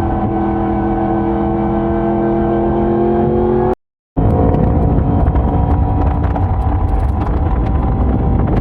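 Yamaha YZF-R1's crossplane inline-four engine running at steady speed, its note easing slightly down in pitch. A little under four seconds in, the sound cuts out completely for about half a second, then returns noisier, with a rumble and a less distinct engine note.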